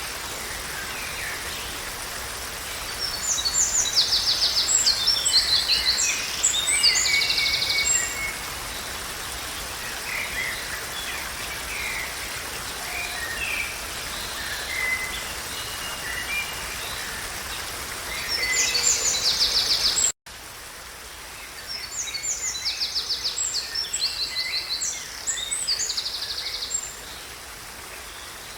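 A songbird singing bright phrases of chirps and fast trills in three bouts, over a steady rushing background noise. The sound drops out for an instant about two-thirds of the way through, then the song resumes.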